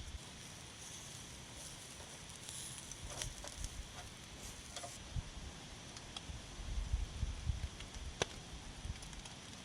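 Wind rumbling in gusts on the microphone over a steady hiss, with a few scattered small clicks and ticks.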